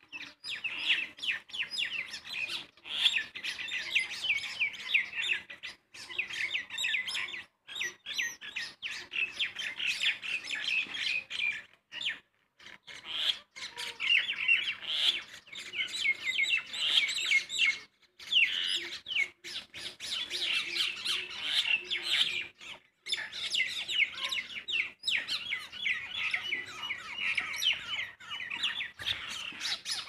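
Small birds chirping rapidly and almost without pause, a dense run of high, quick chirps broken by a few brief silent gaps.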